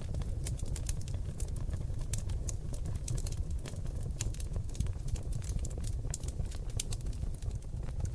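Seasoned oak logs burning in a fireplace: a dense, irregular crackle of sharp pops and snaps over a steady low rumble of flames.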